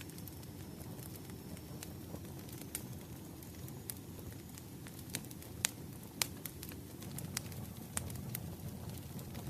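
Firewood burning: a steady low rumble of flames with scattered sharp crackles and pops, the two loudest a little past halfway.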